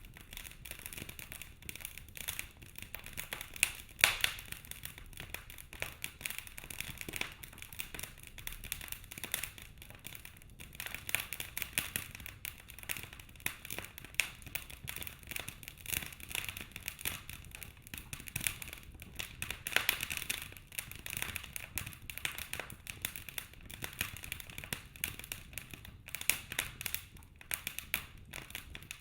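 Wood fire in a fireplace crackling and popping, with a steady stream of small snaps and a few louder pops, one about four seconds in and another around twenty seconds.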